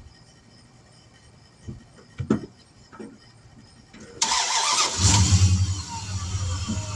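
A few short knocks, then an engine cranks and starts about four seconds in and settles into a steady idle.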